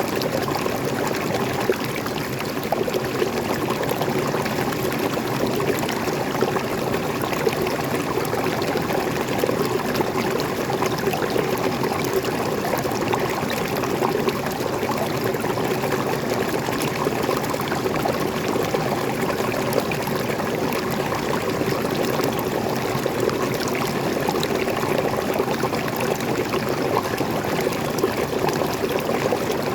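Small waterfall: water pouring and splashing steadily, an even rushing sound with no breaks.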